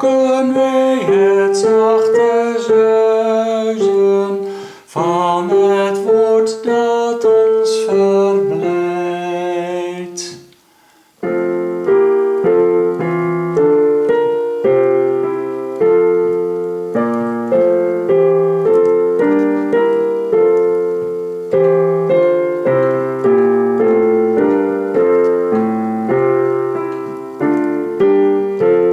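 Hymn singing over keyboard accompaniment for about ten seconds, stopping briefly. Then a piano-toned keyboard plays the hymn tune alone in steady chords.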